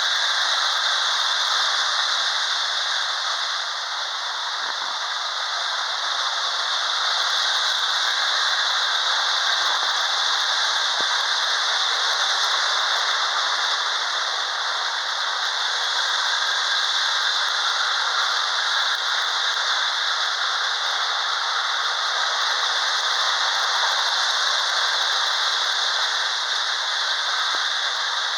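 Lionel model trains running around the layout's track, a steady rattle of wheels and motors.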